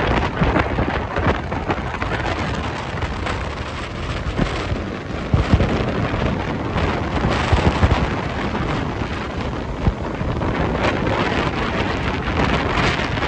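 Strong gusty wind buffeting the microphone: a loud, continuous rushing rumble that swells and eases with the gusts, strongest a little past the middle.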